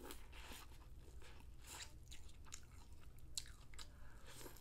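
Corn on the cob being bitten and chewed close to the microphone: faint, irregular crunches of the kernels.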